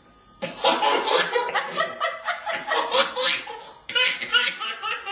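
A person laughing in quick, choppy bursts, starting about half a second in, with a brief pause near the four-second mark before the laughter picks up again.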